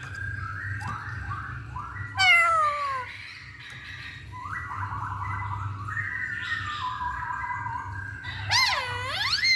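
Masked laughingthrush (poksay hongkong) calling: runs of short falling whistled notes, a loud falling call with strong overtones about two seconds in, and a loud swooping rise-and-fall call near the end.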